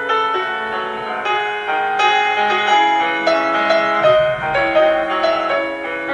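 Solo piano playing a classical piece, a flowing melody over chords with notes changing several times a second.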